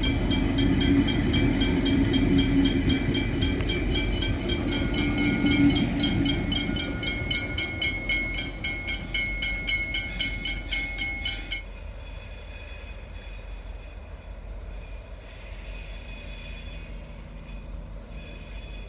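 An N class diesel locomotive hauling a VLocity railcar passes, its engine and wagons running loudest in the first few seconds, then fading. A fast, regular ringing runs over it and stops abruptly about two-thirds of the way through, leaving a quieter rumble.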